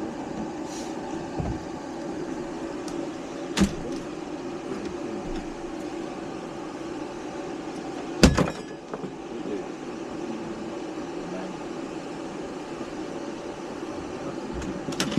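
Refrigeration vacuum pump running steadily while it evacuates the line set, with a sharp knock about three and a half seconds in and a louder one about eight seconds in.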